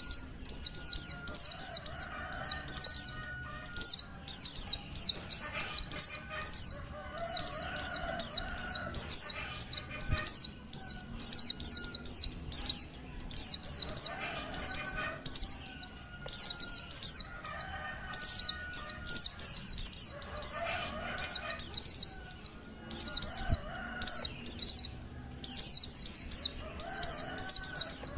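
Female pleci (white-eye) calling: rapid runs of high, thin, down-slurred chips in tight clusters, repeated with only brief gaps. It is the female's call that stirs male pleci into singing.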